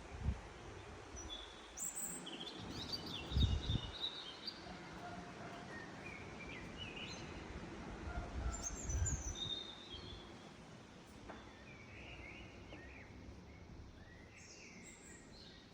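Small birds chirping in short scattered calls over a steady background noise, with two low rumbles about three and nine seconds in.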